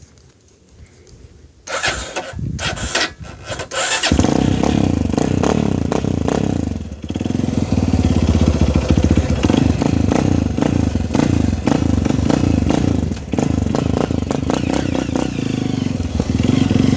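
Motocross motorcycle engine starting: a couple of seconds of mechanical clatter, then it catches about four seconds in and keeps running loudly, with two brief dips in the revs.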